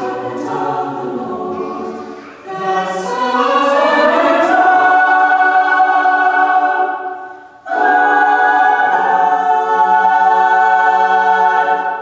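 High school chamber choir singing the closing phrases of a song, with a brief breath about two-thirds through, then one long held final chord that ends near the close.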